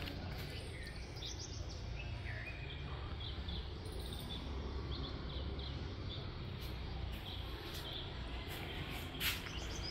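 Small birds chirping in short, repeated calls over a steady low rumble of outdoor background noise, with one sharp click near the end.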